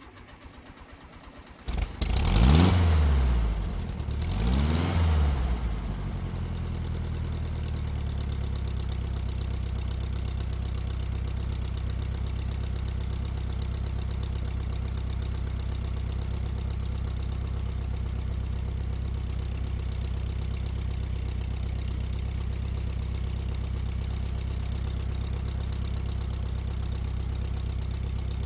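Volkswagen Beetle air-cooled flat-four engine cranking briefly and catching. It is revved twice, then settles into a steady idle.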